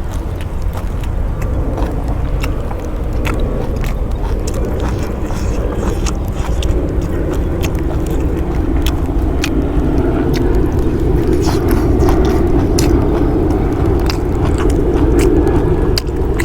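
An aircraft droning overhead, growing gradually louder, with close-up crunching and chewing clicks from someone eating.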